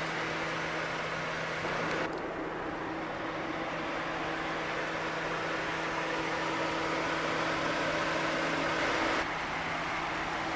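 Ford Mustang's 3.7-litre V6 idling steadily, a constant hum over a hiss, the tone shifting slightly about two seconds in and again near the end.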